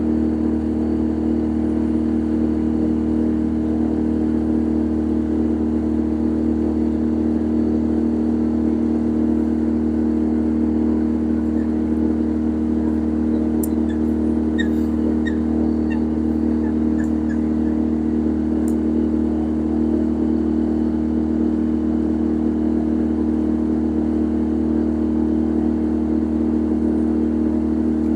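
Steady, unchanging drone of a boat's engine heard on board, with a constant low hum. A few faint clicks are heard about halfway through.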